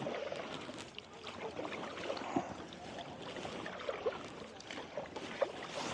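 Kayak paddles dipping and splashing in shallow lake water, with drips and small splashes against the hull as the kayak is turned.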